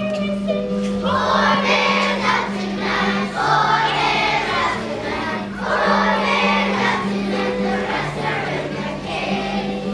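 A group of first-grade children singing together in phrases, over an instrumental accompaniment of sustained low notes.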